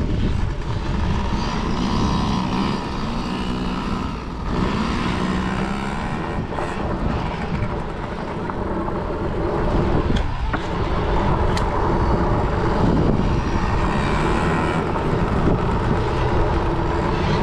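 Kids' dirt bikes racing around a motocross track, their engines revving up and down through the gears.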